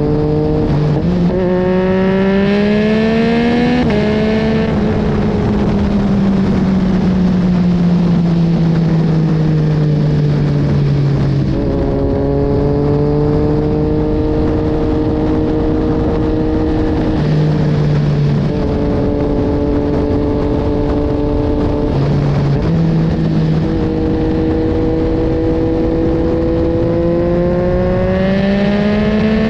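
2022 Yamaha MT-09's 890 cc inline-three engine through a full carbon Akrapovic exhaust on the move. It revs up through a couple of gear changes, winds down for several seconds, runs fairly steady with a few shifts, then pulls up in revs again near the end, over steady wind noise.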